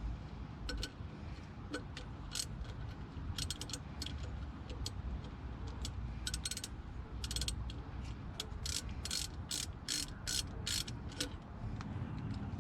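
Hand ratchet wrench clicking as it works bolts, in scattered strokes at first and then a steady run of strokes about three a second near the end.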